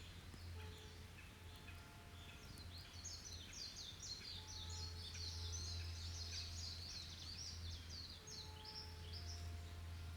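A small songbird sings a long, rapid, high twittering song for about five seconds in the middle, over a faint steady low rumble and a few soft distant whistled notes.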